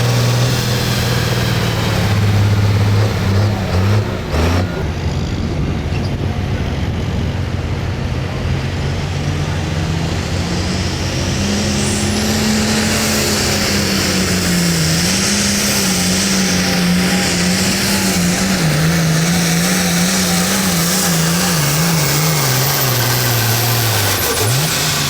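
Hot farm class pulling tractor's diesel engine running hard under load on a sled pull. Its pitch dips about four seconds in, then holds high and wavers, and falls off near the end.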